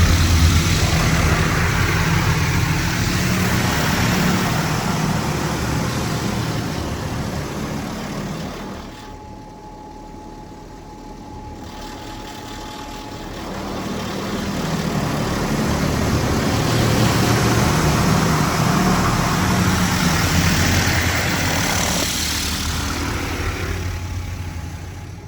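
Mark VII AquaJet GT-500 touch-free car wash gantry running: a steady hiss of spray or air over a low motor hum. It fades about a third of the way in and swells again, as if moving away and back along the car.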